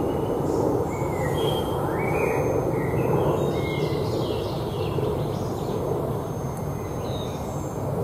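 Woodland birds singing short, high chirping and whistled phrases over a steady low rushing noise.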